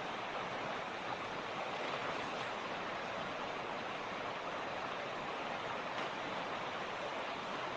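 Mountain creek water running and splashing over rocks, a steady even rush.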